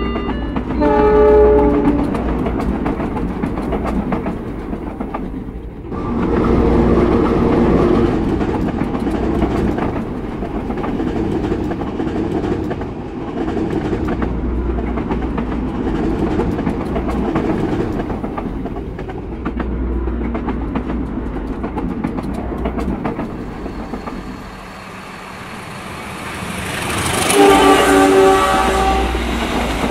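Diesel-hauled passenger train running along the rails with a steady rumble and clickety-clack. The locomotive's horn sounds about a second in and again near the end.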